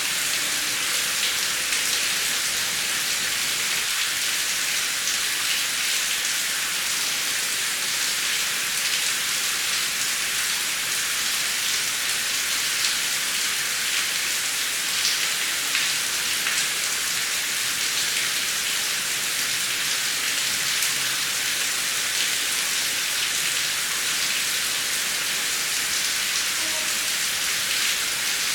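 Heavy rain falling steadily, an even hiss of drops on a surface with no thunder in this stretch.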